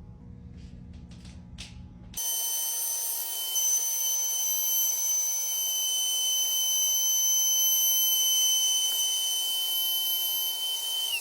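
Makita router motor starting abruptly about two seconds in and running at full speed with a steady high-pitched whine over a hiss. Near the end it is switched off, and the whine falls quickly in pitch as the motor spins down.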